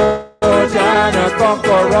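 Worship band music with pitched melodic lines, possibly including voices. It fades out sharply a moment in, goes silent for a split second, then comes straight back.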